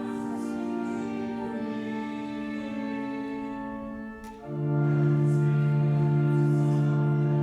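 Church organ playing sustained, steady chords, as for a chanted psalm. About four and a half seconds in it pauses briefly, then a louder, lower chord comes in and holds.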